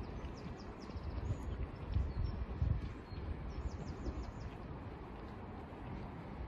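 A small bird chirping in two quick runs of short, high-pitched notes, one near the start and one a little past halfway, over a steady low outdoor rumble with a few low thuds around two seconds in.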